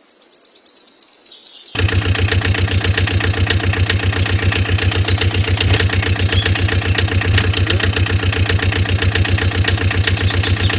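An engine running at a steady idle with a rapid, even chugging that starts abruptly about two seconds in, after a brief faint rising sound.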